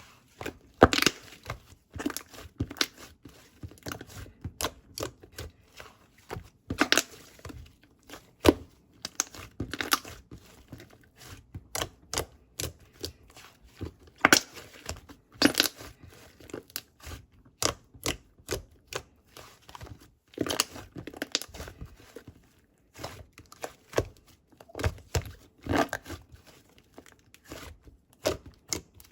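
Close, irregular crinkling, tearing and tapping sounds of something being handled, with frequent sharp clicks and short crackly rustles.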